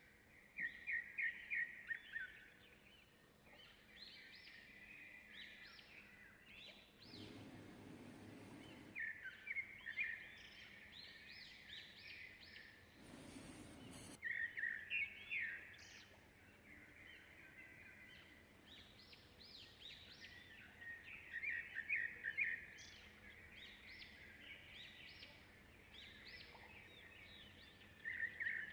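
Small birds chirping and singing in quick, repeated trills. Two short bursts of hiss-like noise break in about a quarter of the way through and again near the middle.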